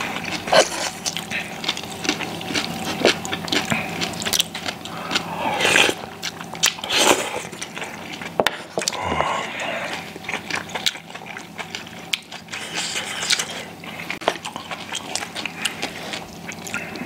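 Two people eating close to the microphone: chewing and smacking on Korean pan-fried pancakes (jeon), rice and side dishes, with scattered short clicks of chopsticks against bowls and plates.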